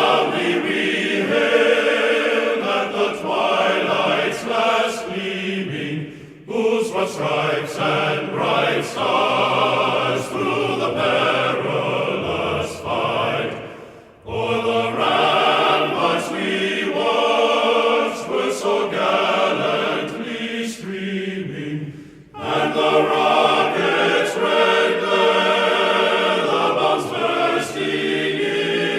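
Choral music: voices singing together in long phrases, with a short break about every eight seconds.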